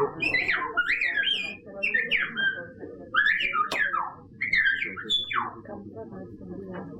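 A series of short, high whistled calls, each sliding up and down in pitch, in about six quick phrases with short gaps, dying away in the last second or so. A single sharp click comes just before the middle.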